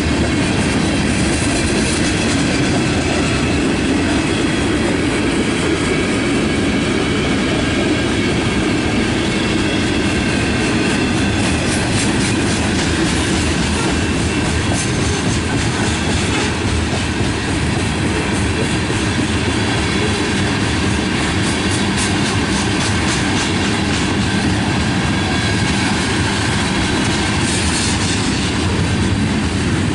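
Freight cars, covered hoppers and tank cars, rolling past close by: a steady rumble of steel wheels on rail, with the wheels clicking over rail joints and a run of sharper clacks through the middle.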